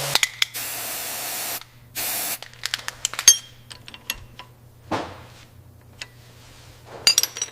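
Two bursts of compressed-air spraying hiss, the first about a second long and the second shorter, followed by scattered sharp metallic clicks and taps.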